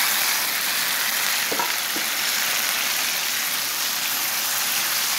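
Chopped tomato and green chillies sizzling in hot oil with frying onion and garlic in a pan: a steady frying hiss, with a couple of light ticks about a second and a half in.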